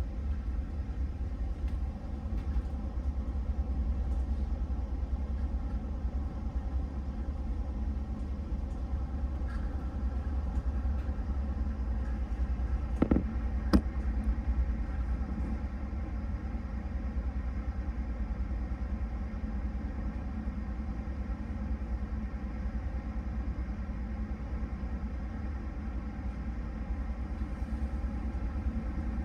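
Steady low rumble of a Railjet train running at speed, heard from inside the passenger car, with two sharp knocks about halfway through.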